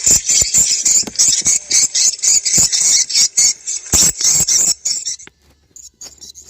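Swiftlet lure call: a dense run of rapid, high twittering chirps that thins out about five seconds in, leaving fainter scattered chirps.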